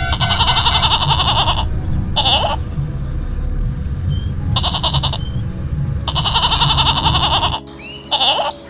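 A large herd of goats bleating again and again, with several long quavering bleats over a steady low rumble from the moving herd. The rumble cuts off short near the end, and one brief, different call follows.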